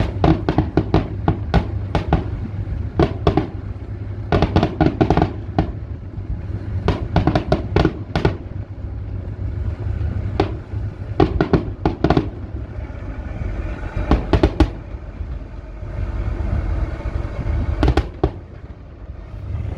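Fireworks going off in rapid volleys of sharp bangs and crackles, several reports a second in clusters, over a steady low rumble. The volleys thin out after about 15 s to a few last cracks near the end.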